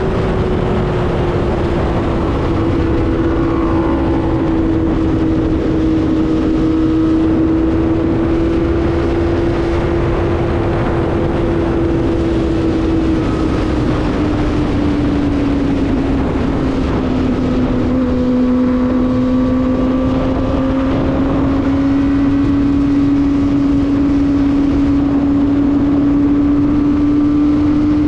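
Kawasaki ZX-25R's 250 cc inline-four engine running at high, steady revs on the move, with wind rushing over the microphone. Its pitch eases down about halfway through, then holds and creeps slightly back up.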